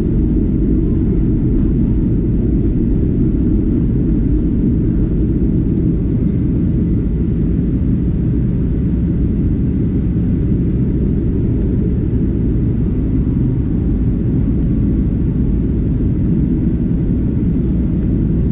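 Steady low rumble of an airliner heard from inside the passenger cabin: engine and airflow noise at an even, unchanging level.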